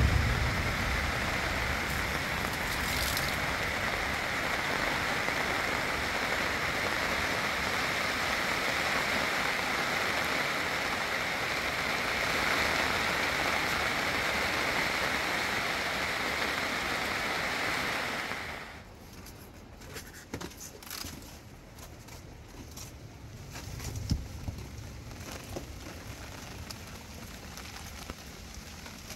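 Steady hiss of rain falling on a plastic sheet roof. It cuts off suddenly about two-thirds of the way through, giving way to quieter light rain with scattered drops ticking.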